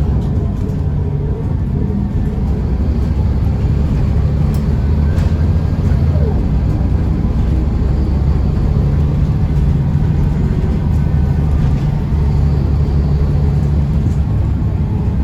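Scania L94UB bus's DSC9 six-cylinder diesel engine running under way, a steady low drone.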